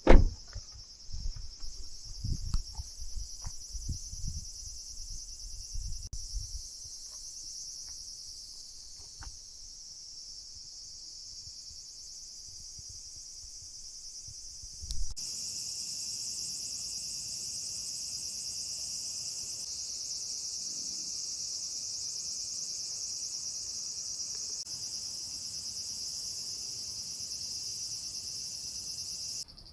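Insects chirring in a steady, high-pitched night chorus, louder from about halfway in. There is a loud knock right at the start, and soft low thuds during the first few seconds.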